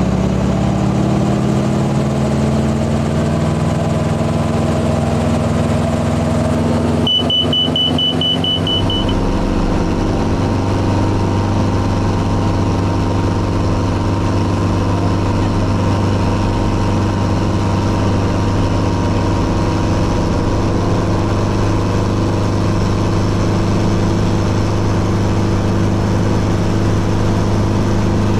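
Helicopter engine and rotor running, rising in pitch over the first couple of seconds and then holding steady, as the aircraft is brought up to speed for a flight. About seven seconds in, a rapid beeping warning tone sounds for about two seconds, then stops.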